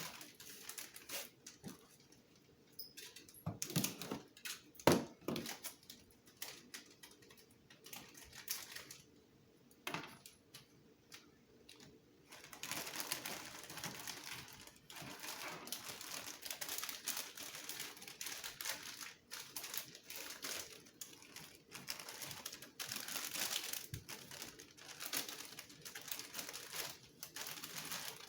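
Small plastic packets and packaging being handled: scattered clicks and taps, then from about twelve seconds in a steady crinkling rustle of plastic with clicks through it.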